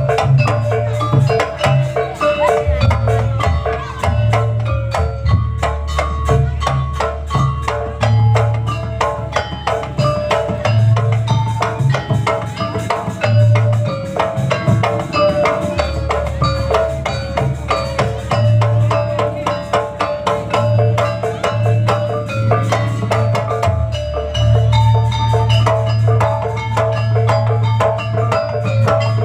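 Jaranan gamelan music: tuned metal percussion playing fast, dense ringing patterns over steady low drum beats.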